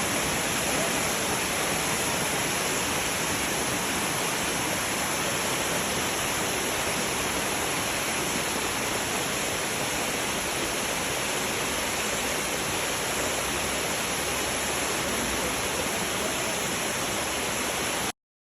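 Waterfall rushing, a steady, even wash of falling water that cuts off suddenly near the end.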